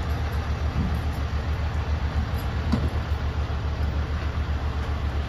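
Heavy crane tow truck's diesel engine running steadily, a deep rumble.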